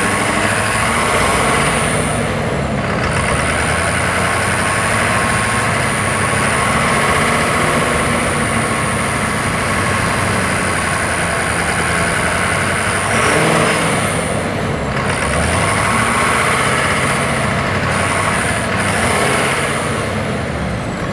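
Ford 6.7-litre Power Stroke V8 diesel running steadily at high idle, with a buzz over the engine note. The engine was throwing a cylinder 5 imbalance code, and the buzz was traced to a cracked intake valve.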